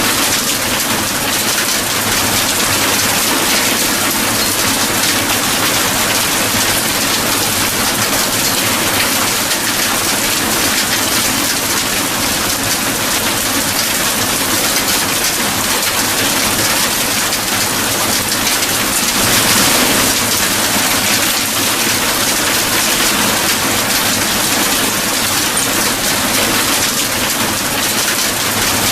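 Steady heavy rain falling, an even hiss of drops that swells briefly about two-thirds of the way through.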